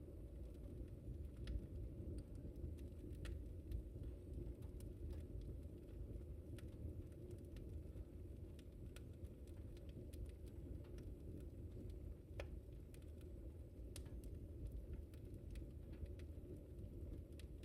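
Wood fire in a fireplace crackling: sparse, irregular sharp pops and snaps over a steady low rumble of the flames.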